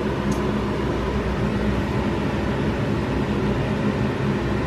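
Steady whirring hum of a fan, such as a kitchen appliance or air-conditioning fan, with a faint click about a third of a second in.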